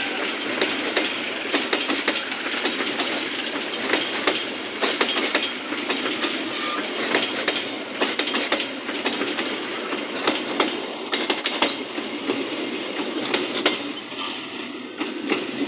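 Parcel cargo train's wagons rolling past close by: a steady rumble of wheels on rail, with frequent sharp clicks as the wheels clatter over rail joints.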